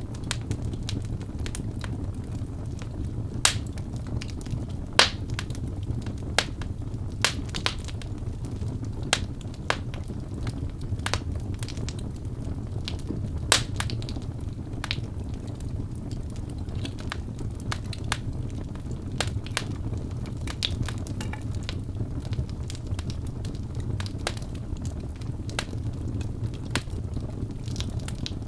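Wood fire burning in a fireplace: a steady low rumble of the flames with irregular sharp crackles and pops from the burning logs, a few louder pops standing out.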